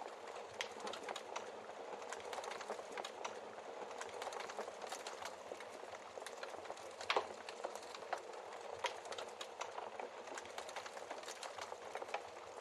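Wood fire crackling in a fireplace: a steady hiss with many small snaps, and one louder pop about seven seconds in.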